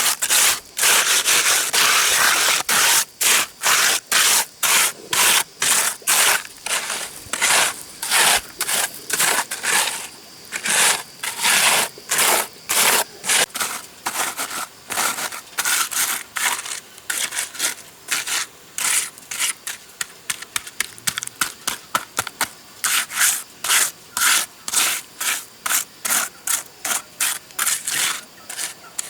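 Repeated rasping scraping strokes, one after another, coming faster in the second half.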